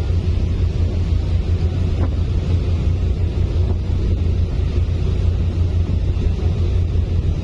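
Fast passenger ferry under way, heard on board: its engines running in a steady low drone, with wind buffeting the microphone.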